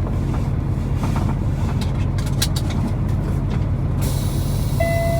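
Semi truck's diesel engine idling steadily, heard from inside the cab, with a few light clicks and knocks. Near the end a hiss of outside noise comes in suddenly and a steady electronic chime begins to beep.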